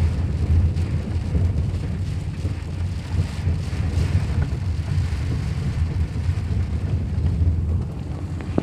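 Car driving in a thunderstorm, heard as a steady low rumble of engine and road with a hiss of rain over it.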